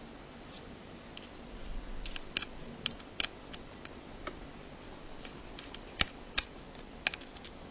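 A few sharp, light clicks and taps of small hand tools and tiny phone parts being handled: a cluster of them a couple of seconds in, then three more spaced clicks later on.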